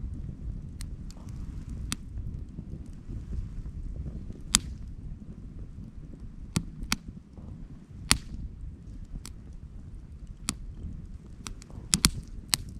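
Wood fire crackling: sharp, irregular pops and snaps over a steady low rumble.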